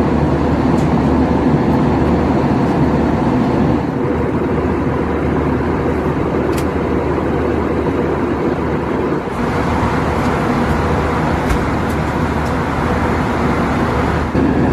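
Steady airliner cabin noise inside an Airbus A321 in flight: a constant drone of engines and rushing airflow, with a low hum underneath and a few faint clicks.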